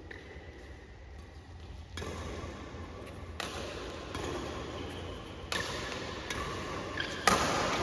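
Badminton rackets striking a shuttlecock in a rally, sharp hits about one and a half to two seconds apart, over the noise of an indoor hall. The loudest hit comes near the end.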